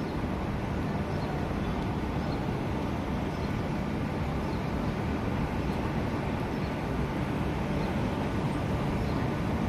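SMRT C151 electric train, Kawasaki-built, pulling out of the station: a steady rumble of wheels and running gear.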